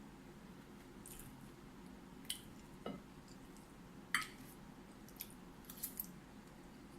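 Eating at close range: several short, sharp crunches and clicks of chewing and cutlery, the loudest about four seconds in, over quiet room tone.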